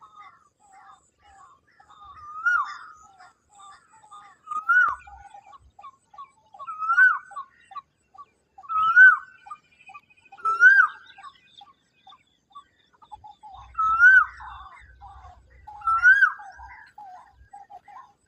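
A bird calling over and over: a loud whistled note that rises and then falls, repeated about every two seconds, over a steady patter of softer, quicker calls.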